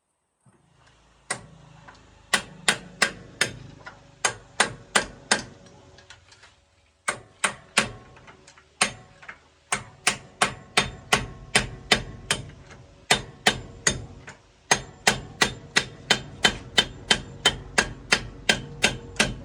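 A hammer striking metal in a steady run of sharp, ringing blows, about two to three a second. The blows break off briefly about six seconds in, then resume and keep going.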